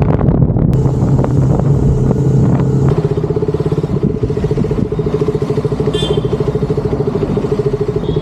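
Motorcycle engine running on the road. About three seconds in, the steady drone settles into an even, pulsing engine note.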